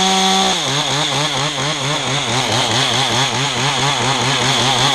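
Two-stroke chainsaw cutting through a pine spar. It is held at high revs, then drops in pitch about half a second in as it loads up in the cut, its note wavering up and down several times a second.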